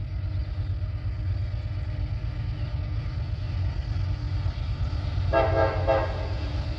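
Diesel-hauled manifest freight train passing close by with a steady low rumble, and one short toot of the locomotive horn about five seconds in.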